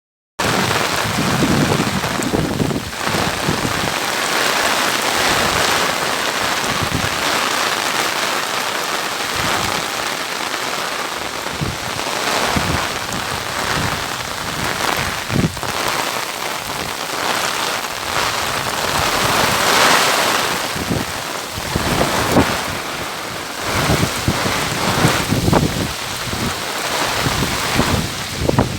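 Heavy monsoon rain falling steadily: a dense, even hiss of rain on surfaces that swells and eases a little from moment to moment.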